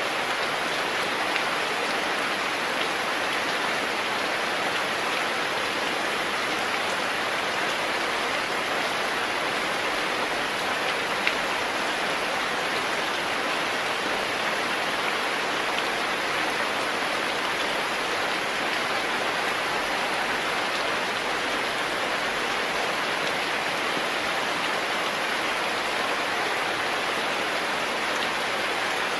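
Steady rain falling, an even hiss with occasional louder drop ticks.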